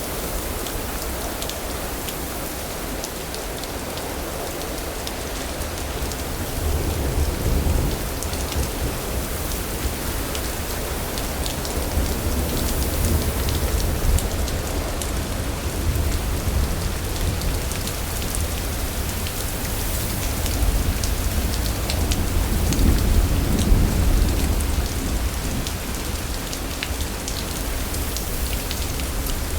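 Steady rain on surfaces with the fine patter of drops, under a thunderstorm. Low thunder rolls in and out several times, swelling about a quarter of the way in and again around the middle, with the loudest, longest rumble about three-quarters through.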